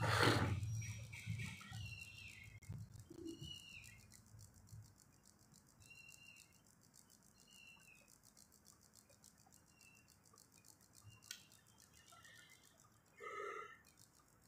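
Small birds chirping now and then in the background, short chirps every second or two. A loud rush of noise comes in the first second, and a short low sound comes near the end.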